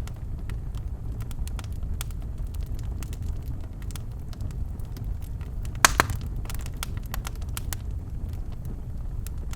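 Birchwood fire burning in a fireplace: a steady low rumble of flame with scattered sharp crackles, and one loud pop about six seconds in followed by a brief flurry of cracks.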